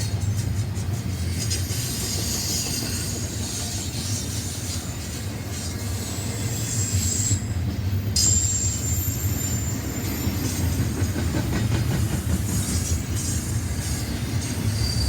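Train passing: steady low rumble of rail cars rolling on the track, with a thin high wheel squeal from about six and a half to ten seconds in.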